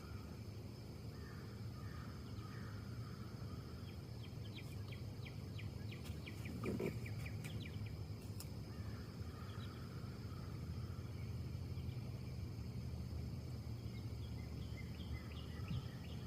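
Wind in the trees as a steady low rumble and hiss. A bird gives a rapid series of short high chirps starting about four seconds in, with fainter chirping near the end. There is a soft dull thump about seven seconds in.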